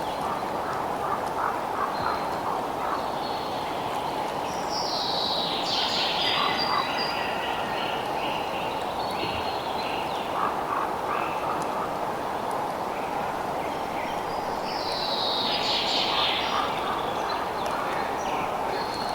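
Night nature ambience: a steady hiss with scattered short animal calls. Two bouts of high, falling chirps come about five and fifteen seconds in.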